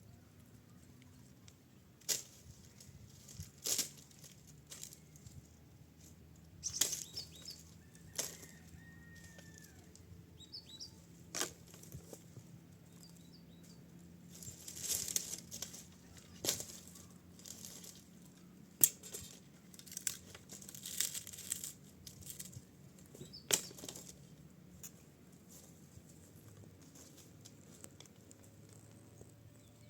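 Scattered sharp knocks and brief rustling, crinkling noises from materials being handled, strongest in the first two-thirds, with a few faint bird chirps.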